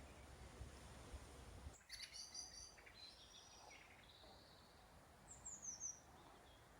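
Faint birdsong: scattered short, high chirps, and near the end a quick run of high notes falling in pitch. A low rumble of wind or handling noise on the microphone is heard for the first second or two.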